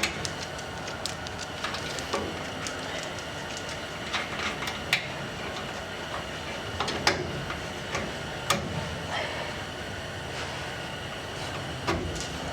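Scattered sharp metallic clinks and knocks of exhaust pipe sections and V-band clamps being handled and fitted, over a steady background noise.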